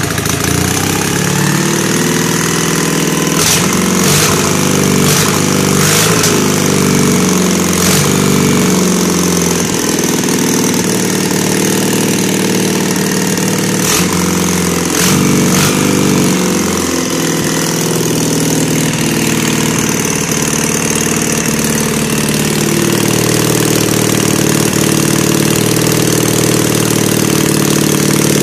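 Freshly rebuilt M72 flat-twin side-valve motorcycle engine, fitted with oversize pistons, running on a test start. Its speed rises and falls a few times, with a few sharp clicks among the changes, then it settles into a steady run.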